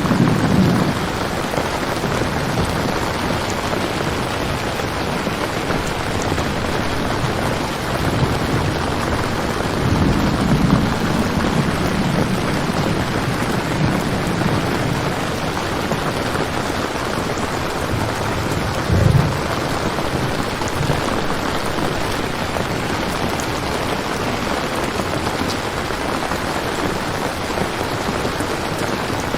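Steady rain with low rolls of thunder: one at the start, a longer one about ten seconds in, and a short, louder one just before twenty seconds.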